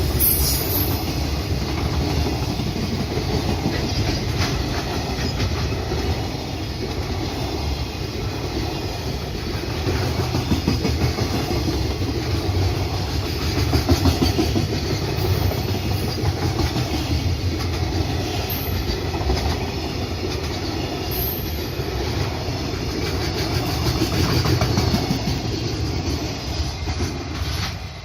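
Freight train running on the rails: a steady rumble with wheels clicking over rail joints.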